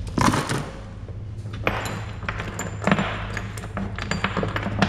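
Small metal engine hardware (bolts and fasteners) clinking and jingling as it is handled and dropped into a container, a few sharp clinks spread across a few seconds, over a steady low hum.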